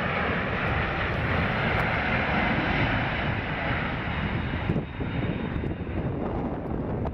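Airplane engine noise, a steady dense rush that drops off about two-thirds of the way through, leaving a thinner rush.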